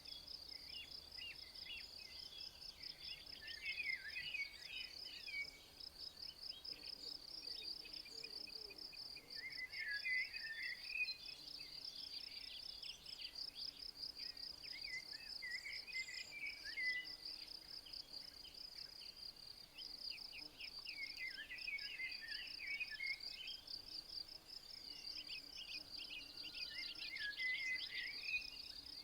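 Outdoor nature soundscape: a continuous high, rapidly pulsing insect trill, like crickets, with scattered bursts of short chirping calls over it.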